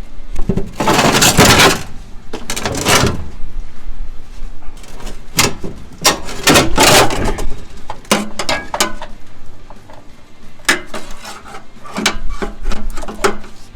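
Scraping, rubbing and clunking of the front fuel tank of a 1991 Ford F150 being worked loose from under the truck: several longer scrapes in the first few seconds and again about six seconds in, with sharp knocks and clicks between.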